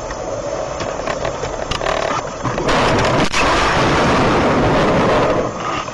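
A car's road noise, then, about three seconds in, a loud rushing noise lasting nearly three seconds with a single sharp bang inside it.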